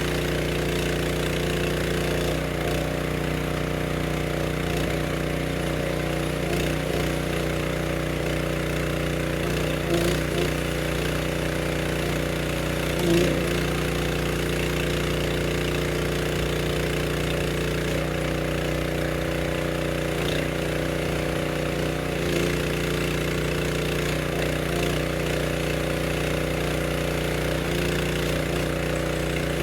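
Log splitter running steadily, with a few brief louder moments where its note wavers, about ten and thirteen seconds in.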